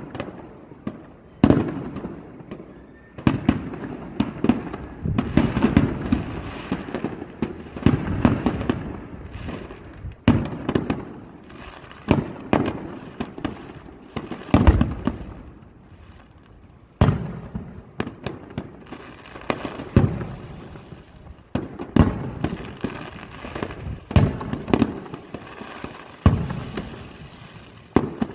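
Aerial fireworks bursting in a long run of sharp booms, each trailing off in a rumbling echo. The bangs come every second or two, and for stretches they overlap into a dense barrage.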